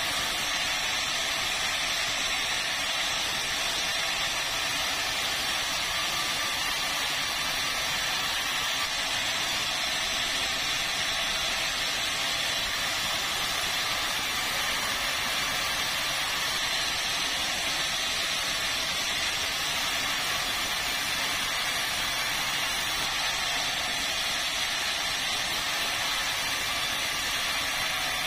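Saw cutting through a red meranti log: a steady, even rushing noise with no rises, falls or breaks.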